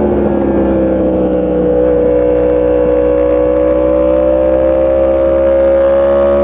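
Motorcycle engine running under steady load, its pitch dipping slightly and then rising slowly and evenly as the bike gathers speed.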